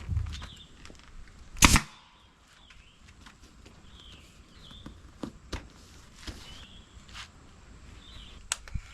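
Staple gun firing a staple into the seat upholstery: one loud, sharp snap just under two seconds in, then a few lighter clicks and knocks from handling the work.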